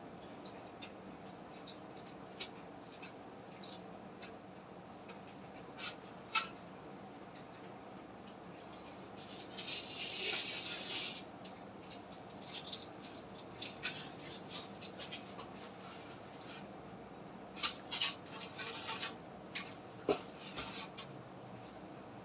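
Packaging being handled by hand: scattered light clicks and taps, with a longer rustling rub about ten seconds in and clusters of clicks later, over a steady faint hum.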